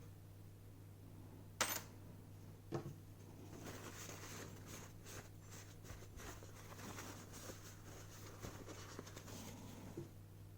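Hands working a plastic bottle cap and its gasket: a sharp click, a second knock about a second later, then several seconds of scratching and small clicks, over a steady electrical hum.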